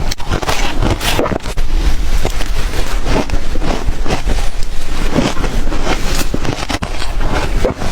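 Close-up crunching of ice being bitten and chewed, a dense run of irregular cracks and grinding crunches.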